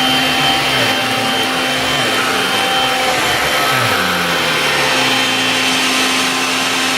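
Bosch Athlet cordless stick vacuum cleaner running steadily: an even motor hiss with a steady high whine, and a lower hum that shifts about midway.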